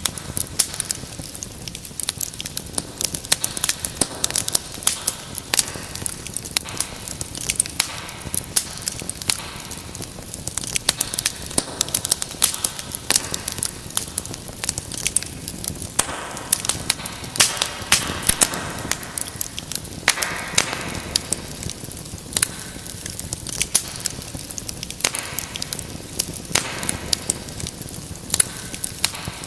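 Wood fire in a fireplace crackling steadily: many sharp pops and snaps over a soft hiss of flames, with a few short louder swells of hissing.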